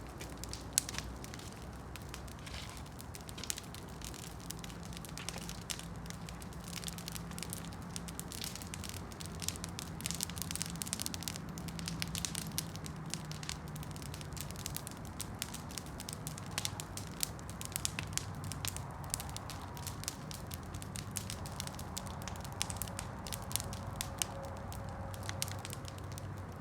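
Wood campfire burning, crackling and popping with many small sharp snaps throughout.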